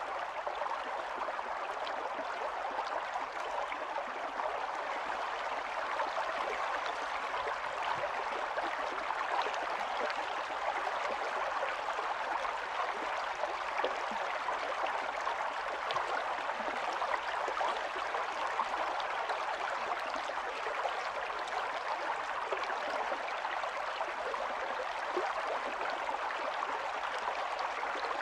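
Small stream of running water flowing and gurgling steadily over stones.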